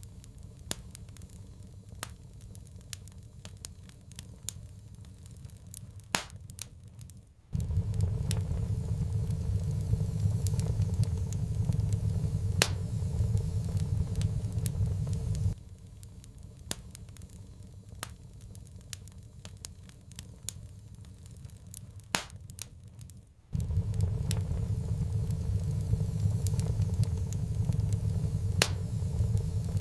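Wood fire crackling, with frequent sharp pops and snaps. A low rumble cuts in abruptly about seven seconds in, drops out halfway through, and cuts in again near the end.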